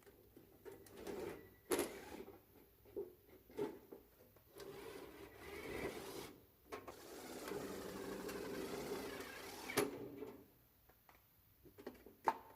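Power drill driving self-tapping screws into the thin sheet metal of a can, in two runs of a couple of seconds each, with scattered clicks and knocks of metal parts being handled between them.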